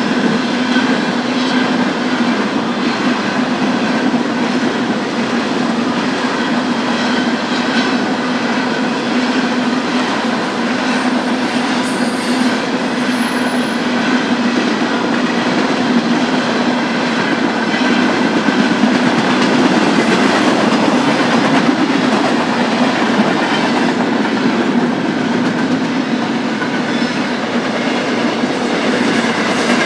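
Freight train cars rolling past steadily, steel wheels clicking over the rail joints, with some faint wheel squeal.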